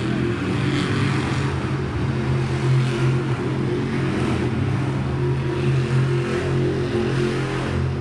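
Monster truck's supercharged V8 engine running loud and steady, a deep drone that holds about the same pitch throughout.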